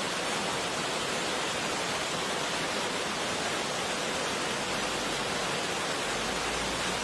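Steady rushing hiss of torrential rain and floodwater, even and unbroken.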